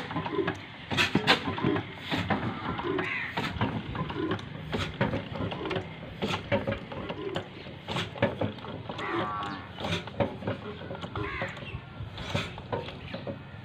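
Birds cawing now and then, with voices in the background and scattered sharp knocks and clicks.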